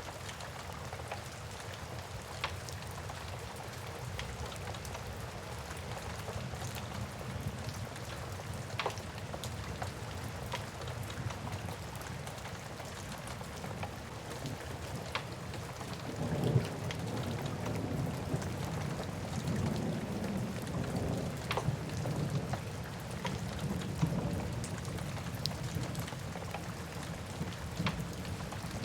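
Steady rain with the sharp, scattered crackles of a wood fire. A little past halfway a low rumble of thunder rolls in and swells in waves for several seconds.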